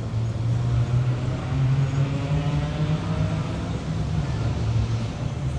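A motor vehicle's engine running close by, a low hum that rises a little in pitch about two seconds in and then settles again.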